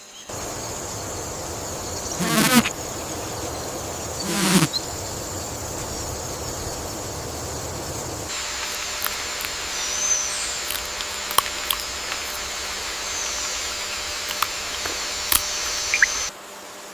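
Forest ambience with a steady, high insect buzz and two short calls about two and four seconds in. About halfway through the ambience changes abruptly to another steady high insect drone, with scattered clicks and a few brief chirps.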